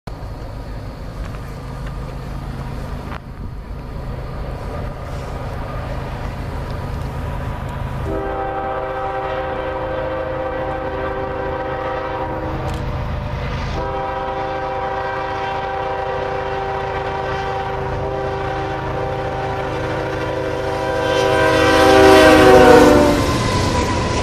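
A Canadian National freight train's diesel locomotive approaches with a low engine rumble and sounds its horn, a chord of several tones, in two long blasts. The horn grows louder and drops in pitch as the locomotive passes close by near the end.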